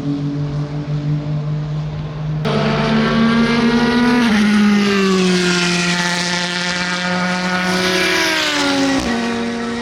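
SUPER GT race car engine running at a steady note, then about two seconds in a louder engine takes over and its pitch slides steadily down over several seconds as the car slows, stepping lower again near the end.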